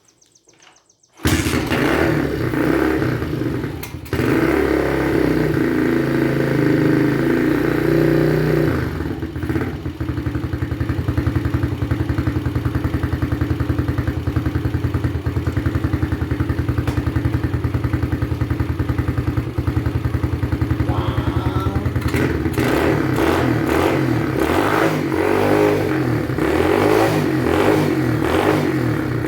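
XPRO Hawk 150cc pit bike's single-cylinder four-stroke engine, breathing through a high-flow air cleaner that replaced the restrictive stock airbox. It comes in suddenly about a second in and runs steadily, then revs up and down repeatedly over the last several seconds.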